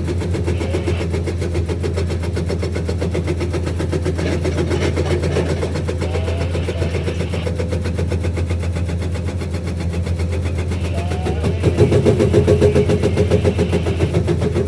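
Komatsu PC210 excavator's diesel engine running steadily with its hydraulic breaker hammering in rapid, even blows. It grows louder about twelve seconds in.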